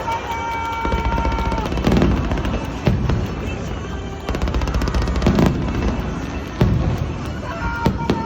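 Fireworks display: shells bursting with low booms and rapid crackling, with music over loudspeakers. A long held note sounds at the start and again near the end.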